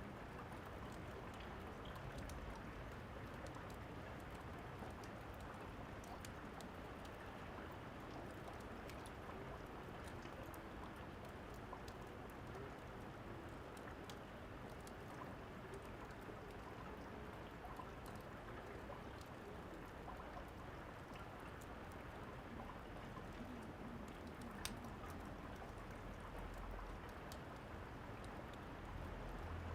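Steady rain with scattered sharp fireplace crackles. A low rumble of thunder builds near the end.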